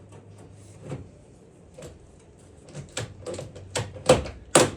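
Handling clatter in a workshop: a run of short knocks and clicks that grows busier after a few seconds and ends with two sharp knocks.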